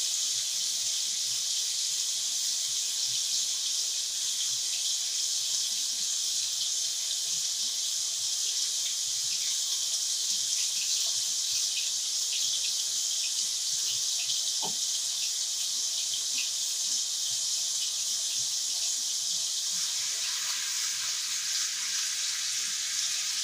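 Beef kababs frying in shallow soybean oil in a nonstick frying pan, sizzling with a steady hiss. Near the end a spatula starts turning them in the pan.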